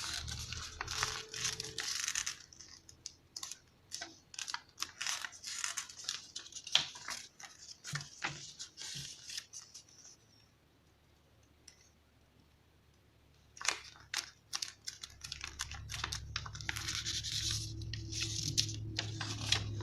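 A sheet of origami paper being folded and creased by hand: crackling rustles and short crisp clicks, with a pause of a few seconds in the middle. A low steady hum sits under the handling at the start and near the end.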